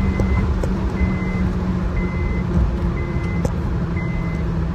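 Cabin sound of a tuned Honda City with an AZC exhaust at very high speed: a steady engine and road drone that sinks slowly in pitch as the car slows. A short high warning beep from the dashboard sounds about once a second.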